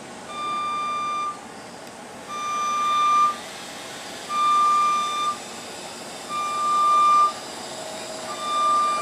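Electronic warning beeper sounding five times: steady one-second beeps about two seconds apart, each a single high tone, like a vehicle reversing alarm.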